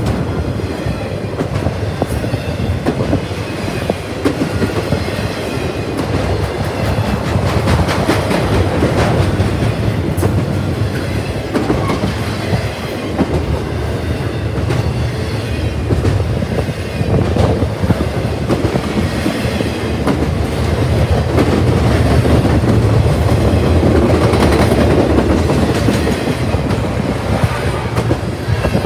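Intermodal freight train's container and trailer cars rolling past close by: a steady rumble of steel wheels on rail with repeated clicks over the rail joints. It grows a little louder about two-thirds of the way through.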